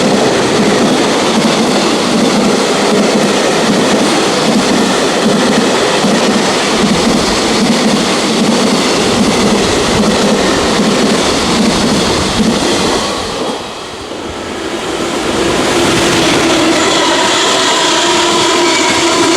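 Freight train running past at speed, a loud steady rumble with the wheels clacking rhythmically over rail joints. Near the end the sound dips briefly, then comes back with a steady whine over the rumble.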